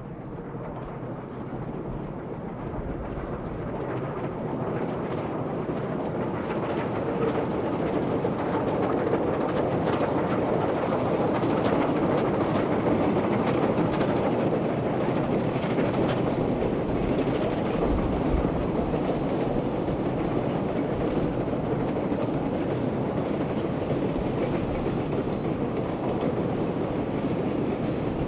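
A QJ-class steam-hauled train rolling past, its noise growing louder over the first ten seconds or so and then holding steady, with the wheels clicking repeatedly over the rails.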